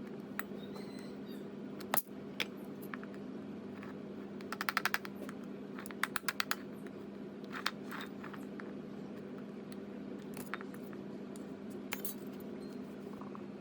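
Small metal parts clicking and clinking as they are handled, including two quick runs of rapid clicks, over a steady low hum.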